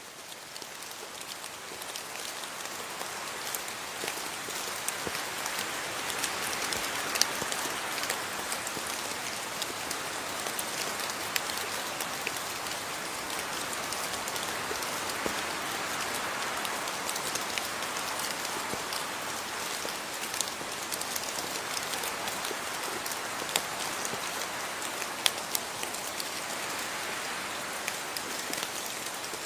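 Steady rain falling on a surface, an even hiss scattered with individual drops ticking. It fades in over the first couple of seconds, then holds steady.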